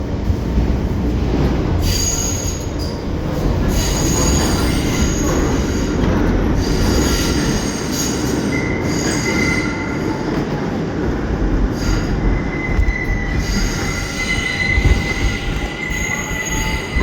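New York City Subway R train running between stations, its steel wheels squealing in high thin tones that come and go over the steady rumble of the car.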